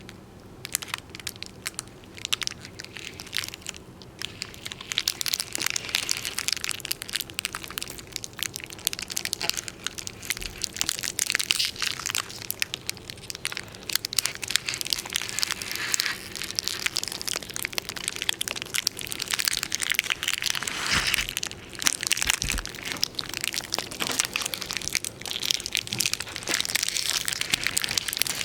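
Continuous dense crackling and crunching, a fast, irregular stream of small clicks and cracks, starting about half a second in.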